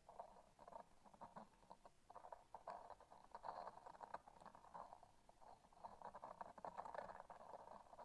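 Faint sticky, tacky crackling from a transparent sticky object pressed and pulled close to the microphone: clusters of small clicks and crackles coming in clumps with short lulls.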